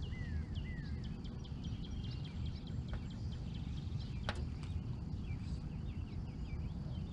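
Birds chirping repeatedly in short, falling notes over a steady low rumble of wind on the microphone, with a single sharp click about four seconds in.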